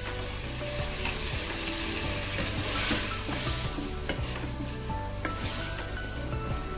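Chicken feet and pork sizzling in oil in a pot while a wooden spatula stirs them, the sizzle swelling louder about three seconds in and again near five seconds.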